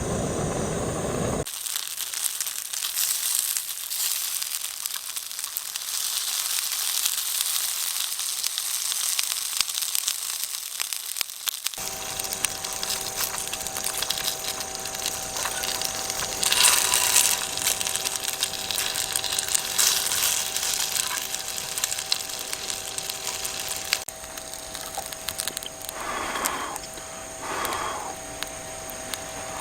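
Dense crackling and crunching, with many small sharp clicks over a hiss. About twelve seconds in, a few steady faint tones join it.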